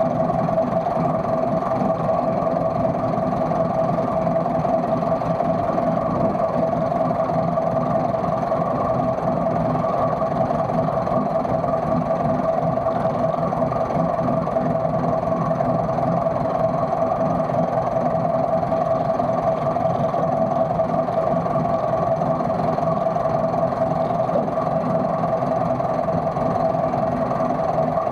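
An engine idling steadily, with a constant whine over a low hum and no change in speed.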